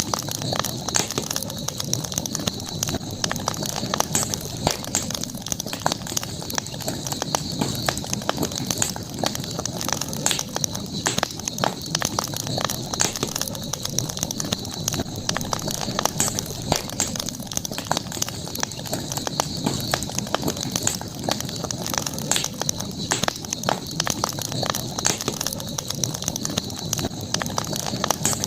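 Campfire burning with frequent irregular crackles and pops from the burning wood over a soft low rumble of flame, and a steady high-pitched tone in the background.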